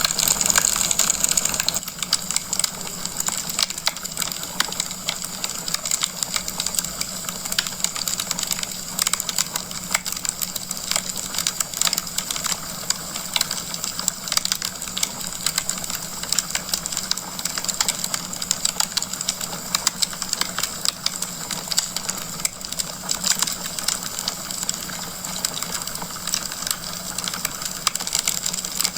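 Wood fire crackling in a fireplace: dense, irregular pops and snaps of burning logs over a steady hiss, slightly louder for the first couple of seconds.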